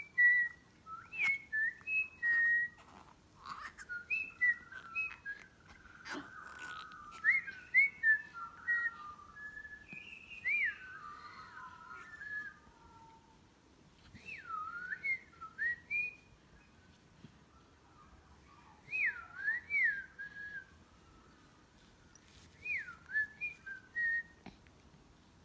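Birds singing: clear whistled phrases of swooping, looping notes, coming in short bursts every few seconds.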